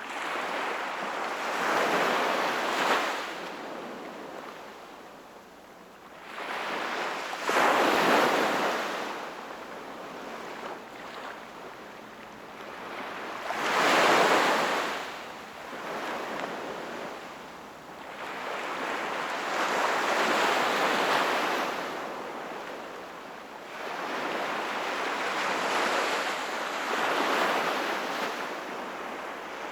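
Sea waves breaking and washing up the shore, one surge about every six seconds, five in all; the surges about 8 and 14 seconds in are the loudest.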